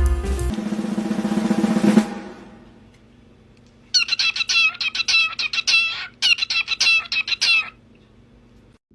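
Music ends on a rising drum roll that cuts off about two seconds in. After a short lull a bird gives two bouts of rapid repeated calls, about four a second, with a brief break between them.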